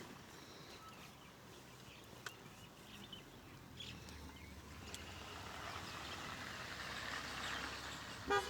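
Open-air ambience with a vehicle approaching: a low hum and road noise build gradually over several seconds. A short vehicle horn toot sounds just before the end.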